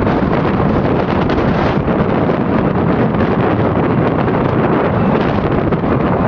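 Loud, steady wind rushing over the microphone.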